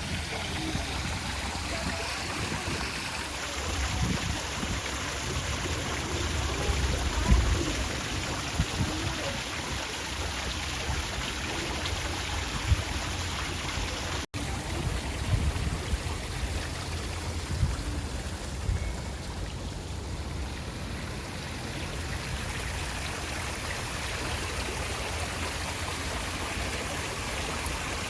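Fountain water running steadily, with a low rumble underneath and a brief dropout about halfway through.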